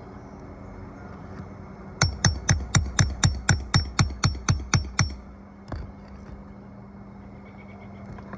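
A hammer driving a roofing nail with about a dozen quick, evenly spaced blows, roughly four a second, then one last knock a moment later.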